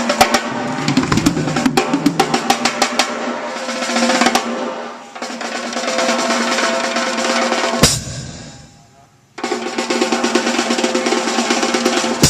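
Live jazz band playing, led by busy snare drum rolls and cymbals on the drum kit, with horns and bass underneath. Near 8 seconds a loud crash hit rings out and fades to near silence, then the music comes back in abruptly at full level.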